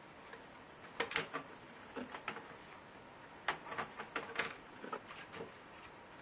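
Irregular clicks and light knocks from a Lenovo Y570 laptop's parts being handled during disassembly, coming in small clusters from about a second in.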